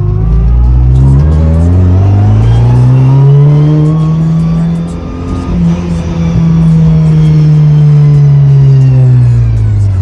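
Built 10th-gen Honda Civic Si race car's turbocharged 1.5-litre four-cylinder accelerating hard. The revs climb through the gears, with a gear change about five seconds in, then fall away near the end.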